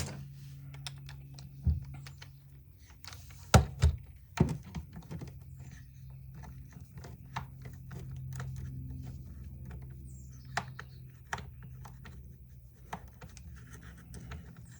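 Small clicks and taps of hands and a screwdriver working on a cordless drill's plastic housing, with a few louder knocks about four seconds in, over a steady low hum.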